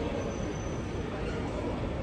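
Low, steady rumble of a train running some way off along the tracks, with no sharp knocks or squeals.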